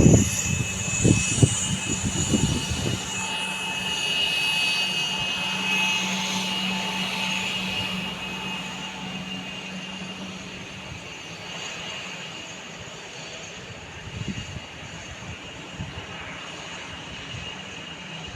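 Jet aircraft engines whining over a steady rumble as the plane passes. The sound is loudest about four to six seconds in, then slowly fades away. A few low thumps come in the first three seconds.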